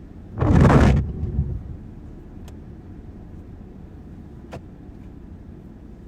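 Steady low rumble of a car driving on a wet road. About half a second in, a sudden loud rush of noise lasts about a second, and two faint clicks follow later.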